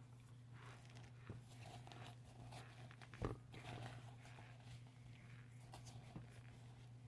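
Faint close-up chewing and crunching of a mouthful of powdery chunks, with scattered soft clicks over a steady low hum. One louder thump comes about three seconds in.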